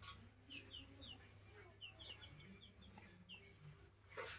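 Faint short falling chirps of small birds scattered through, with faint chicken clucking underneath. A rustle of banana leaves being handled right at the start and again near the end.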